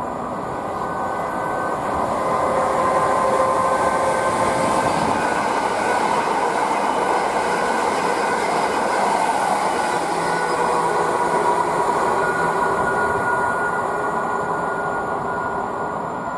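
Greater Anglia Class 379 Electrostar electric multiple unit running past the platform: steady rail and wheel noise with level whining tones. It swells a couple of seconds in and fades near the end as the train moves away.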